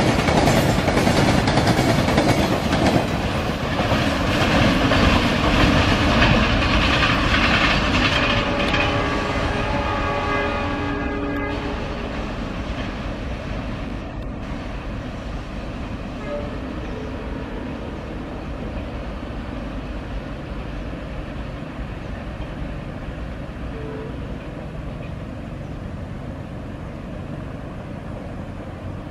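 Tanker train hauled by twin diesel locomotives passing at speed: wheels clattering over rail joints under a heavy rumble. About eight and a half seconds in, a multi-tone horn sounds for some three seconds and cuts off, and the rumble then slowly fades as the train draws away.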